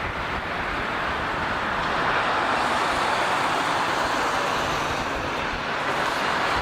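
Steady roar of an airliner's jet engines, an even rushing noise with no sharp events.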